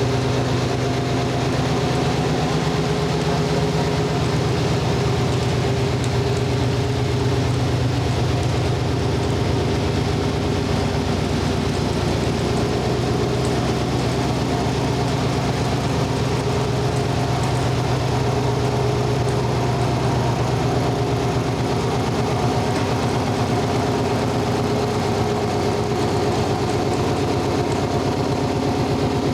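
2019 Porsche 718 Cayman S's turbocharged 2.5-litre flat-four engine idling steadily after a cold start.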